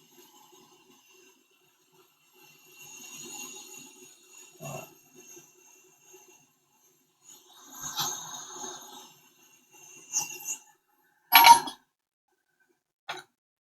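Small tools and parts handled on a repair bench: light scraping and rustling in two spells, then a few sharp clicks, the loudest a clink about two-thirds of the way through.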